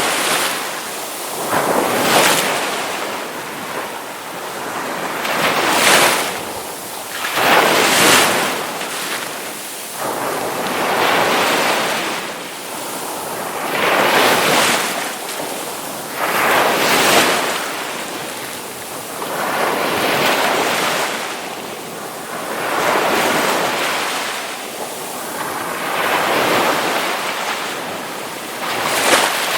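Ocean waves crashing, each surge of surf swelling up and washing back, about one every two to four seconds.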